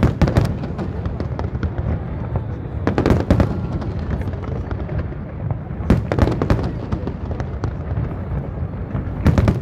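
Large fireworks display: volleys of sharp bangs about every three seconds, with continuous crackling and low rumbling between them.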